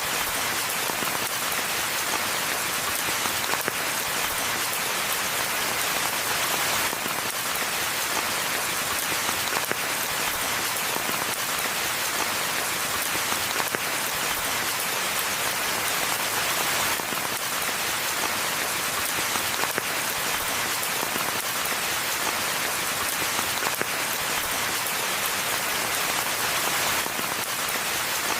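Steady rain falling: a dense, even hiss of raindrops that keeps up without a break.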